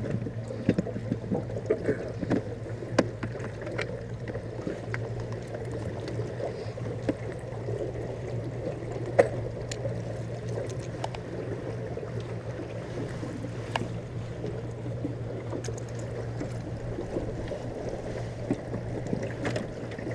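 Small jon boat under way: a small boat motor running with a steady hum while water churns and burbles along the hull, with a few light knocks.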